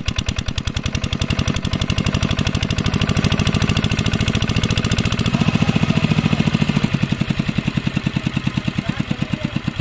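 A diesel engine driving an irrigation water pump, running with a steady, rapid beat of firing strokes. It grows somewhat louder in the middle and eases back near the end.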